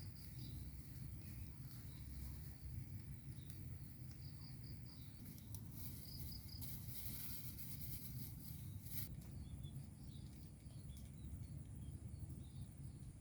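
Rural outdoor ambience: a steady low rumble with faint high chirps scattered through, and a brief rush of hiss from about six and a half to nine seconds in.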